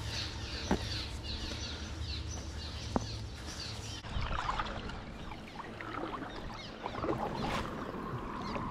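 Creek water splashing and rippling, with many small birds chirping throughout and two sharp clicks, about a second and three seconds in.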